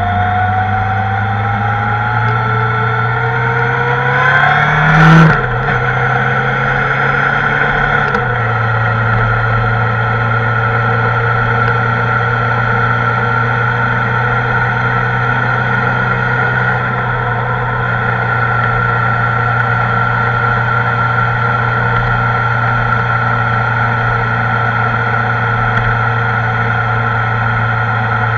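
Kawasaki ZR-7S air-cooled inline-four engine accelerating, its note rising for about five seconds, with a brief loud rush just after that. It then settles to a steady cruising note.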